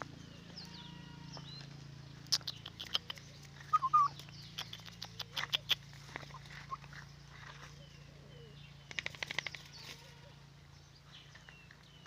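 Birds chirping in short calls, with several quick clusters of sharp clicks and knocks over a steady low hum.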